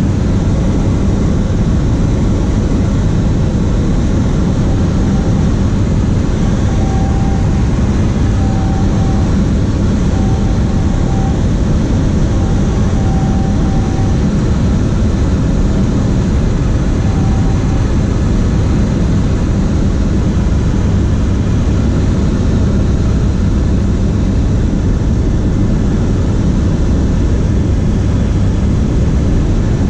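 Cessna 152's four-cylinder piston engine and propeller running steadily in flight. Partway through, a row of short, faint beeps sounds over the drone.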